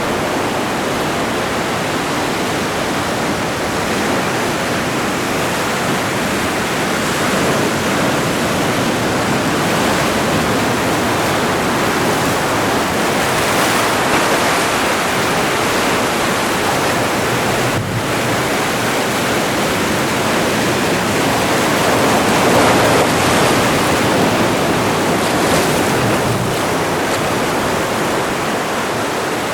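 Atlantic Ocean surf: a steady wash of waves breaking and rolling in, swelling louder and easing off every several seconds.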